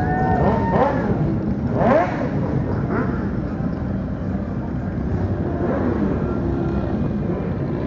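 Motorcycle riding at road speed: a steady engine and road rumble, with a brief louder swell about two seconds in.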